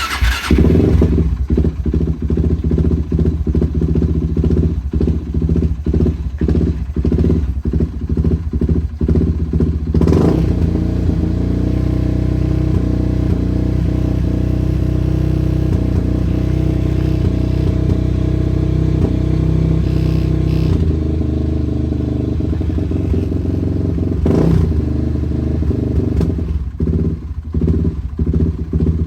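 Suzuki LT-R450 quad's single-cylinder four-stroke engine starting cold and running: uneven and pulsing for the first ten seconds, then holding a steady fast idle that drops lower about twenty seconds in, turning uneven again near the end.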